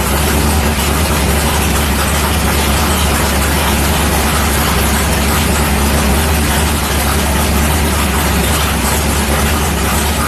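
Big-block Ford V8 idling steadily, with an even low rumble.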